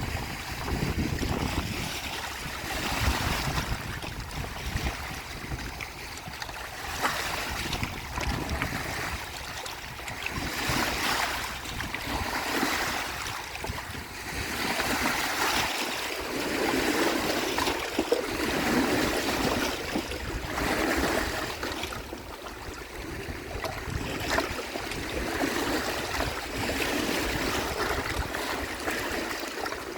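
Lake waves washing onto the shore in repeated surges, swelling and easing every couple of seconds, with wind rumbling on the microphone in the first few seconds.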